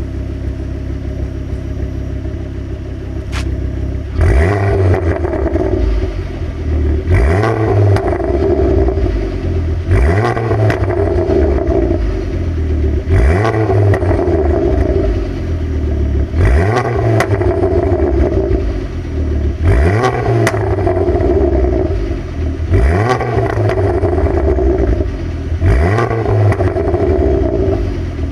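KMS Thunderstorm ST motorcycle engine idling, then blipped eight times about every three seconds, each rev rising and dropping back with exhaust pops and bangs as it falls.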